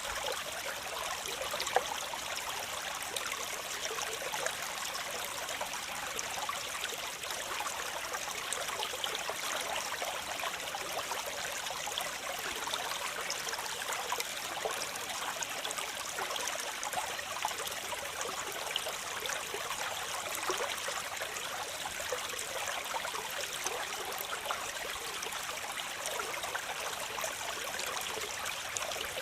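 Waterfall: falling water splashing in a steady, even rush, mostly hiss with little low rumble. A single brief click stands out about two seconds in.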